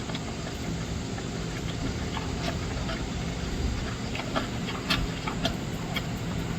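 Dog chewing raw bird and bones: scattered crunching clicks over a low steady hum.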